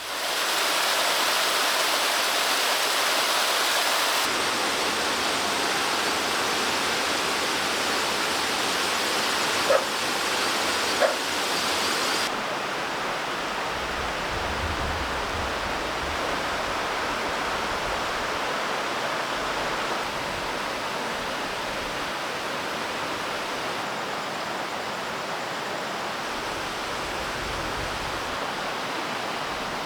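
Steady rushing water in a storm, a loud, even roar. Two short knocks come about ten and eleven seconds in. About twelve seconds in the highest hiss drops away and the roar goes on a little softer.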